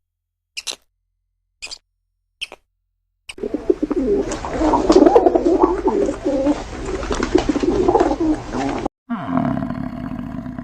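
Three short, high calls, then a flock of pigeons or doves cooing densely, many calls overlapping, for about five seconds. The cooing cuts off suddenly and a deep roar begins, falling in pitch.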